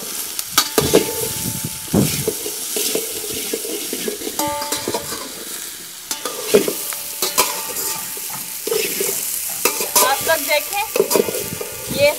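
Potatoes and okra sizzling as they fry in oil in a large steel pan, with a metal slotted spoon scraping and clacking against the pan at irregular moments as they are stirred.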